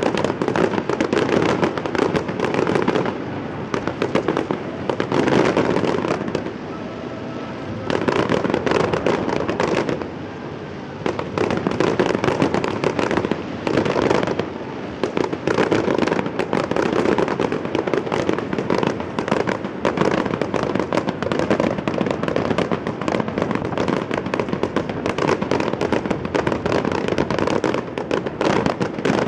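Fireworks display: a dense, continuous barrage of bursts and crackling, with a few brief lulls in the first ten seconds.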